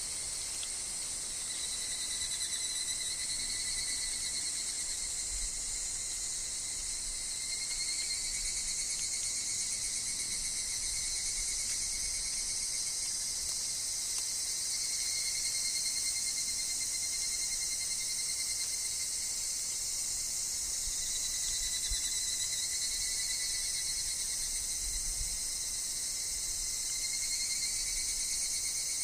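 Chorus of evening cicadas (higurashi) and other insects shrilling steadily, a dense high-pitched drone with calls that swell and fade every few seconds.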